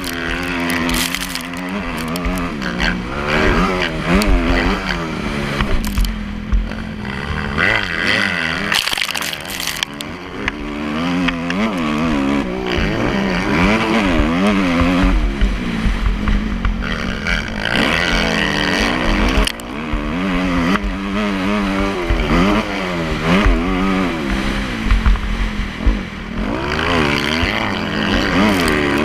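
Motocross dirt bike engine being ridden hard, its pitch rising and falling again and again as the throttle is opened and closed.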